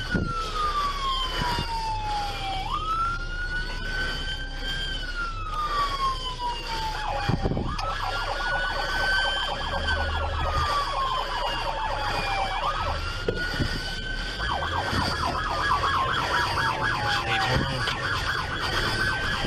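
Police car siren wailing, each cycle a quick rise followed by a long, slow fall, repeating about every five seconds. A faster regular pulsing joins underneath it about eight seconds in.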